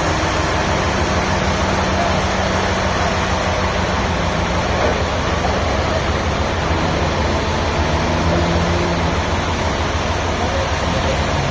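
An engine running steadily, a constant loud rumble with a broad rush of noise over it.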